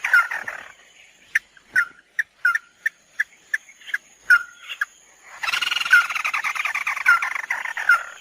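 Recorded lure call of the bird known in Vietnamese as 'mắt đỏ': a fast chattering trill, then a string of separate short, sharp notes that slur downward, then a dense chattering trill again from about halfway through.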